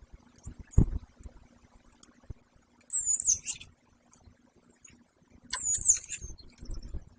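Two short, high-pitched bird calls with quick up-and-down pitch bends, one about three seconds in and one near six seconds, and a dull thump about a second in.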